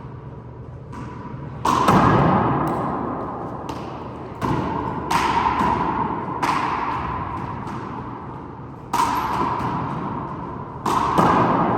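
Rubber handball being struck by hand and smacking off the walls of a four-wall court during a rally: about six sharp smacks at uneven intervals, each ringing on in the court's echo.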